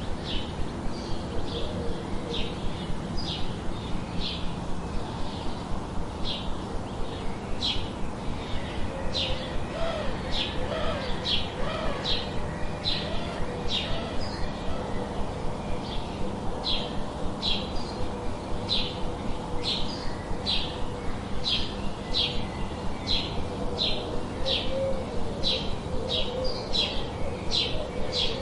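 A small songbird chirping over and over, short high chirps about one or two a second, with a few low, wavering cooing notes from a dove or pigeon partway through.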